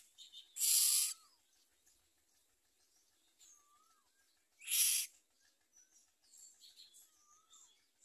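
Common myna nestlings begging with harsh hissing calls: two loud calls, each about half a second, one near the start and one about five seconds in. Faint short whistled notes come in between.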